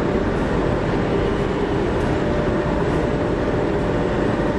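Train running, a steady rumble with a faint whine.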